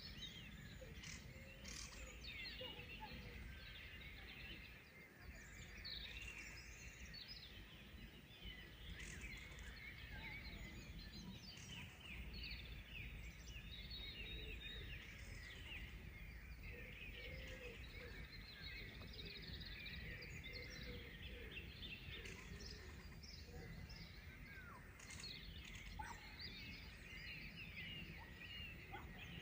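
Several songbirds singing and chirping at once, many short overlapping calls and trills, faint, over a steady low background rumble.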